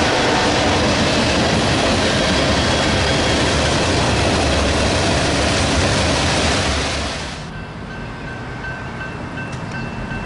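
Train cars rolling past with a clickety-clack of wheels on rail joints. About seven seconds in the rushing noise drops off sharply, and a fainter rumble remains with a thin, steady high ringing.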